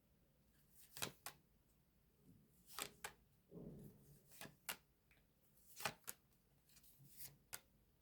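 Tarot cards being handled on a table: faint scattered sharp clicks and a brief soft rustle a few seconds in.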